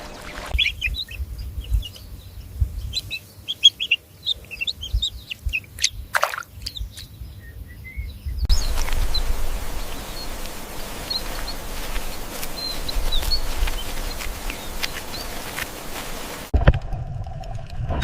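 Small birds chirping in many quick, high calls over a low rumble. About halfway through, the sound cuts to a steady hiss with only a few faint chirps.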